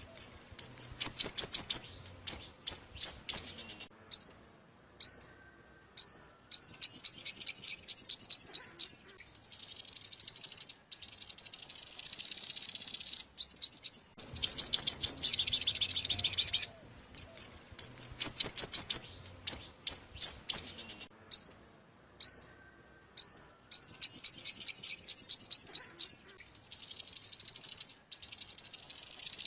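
Sunbird song (the 'five-coloured sunbird' of Vietnamese bird trapping), played as a lure recording: fast runs of high, thin, sharply falling chirps, broken by denser trills. The same passage seems to repeat about every fourteen seconds.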